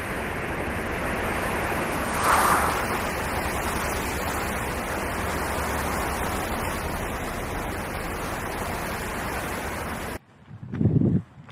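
Steady rushing noise, swelling briefly about two seconds in, then cutting off abruptly about ten seconds in; a short low sound follows near the end.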